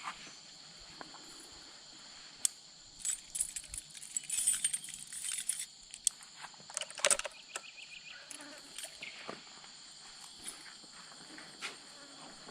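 Steady high-pitched insect chirring, with a spell of clicking and rattling in the middle, like small metal objects being handled.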